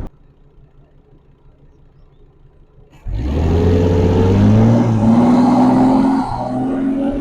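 Volvo S60's turbocharged inline-six, heard through microphones on the engine and exhaust: a faint low hum for about three seconds, then the engine comes in suddenly loud and accelerates, its pitch climbing, easing off a little about six seconds in.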